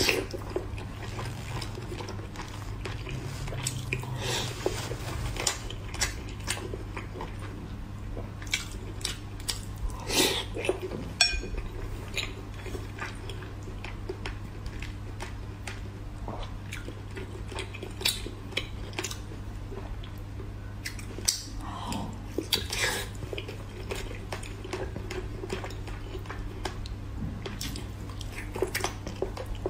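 Close-up mouth sounds of biting and chewing braised pork belly, with scattered sharp clicks of wooden chopsticks against a ceramic plate. A steady low hum runs underneath.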